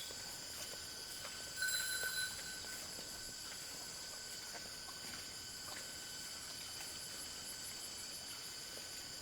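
Insects, crickets or the like, keeping up a steady chorus of high shrill tones with a fast pulsing trill over them. A brief, louder chirp stands out about two seconds in.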